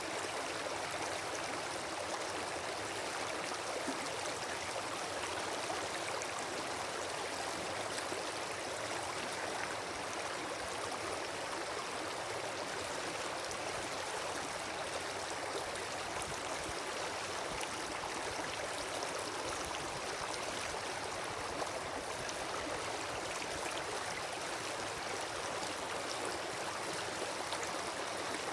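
Wood campfire burning: a steady hiss full of fine crackles, with one slightly sharper pop about three-quarters of the way through.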